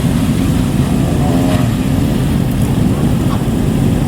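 Several motorcycle engines running loudly together as bikes ride in, a dense low exhaust rumble. A brief voice is heard faintly about a second and a half in.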